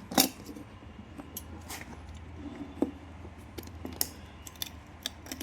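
Scattered clicks and taps from handling a plastic engine-oil can and its cap seal, the sharpest just after the start, over a low steady hum.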